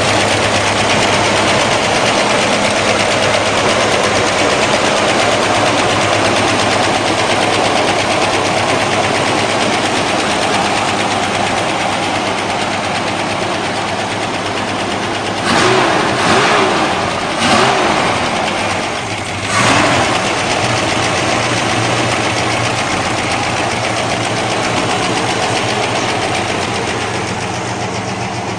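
GAZ-24-34 Volga's V8 engine idling steadily, blipped briefly three times about halfway through.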